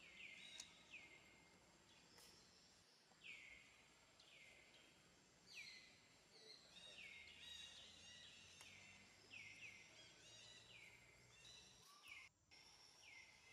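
Faint birdsong: short whistled notes, each sliding downward, repeated over and over, with several overlapping in the middle.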